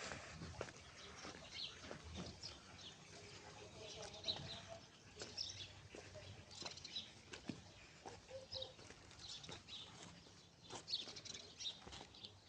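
Faint bird chirps, scattered and irregular, mixed with occasional soft clicks and knocks.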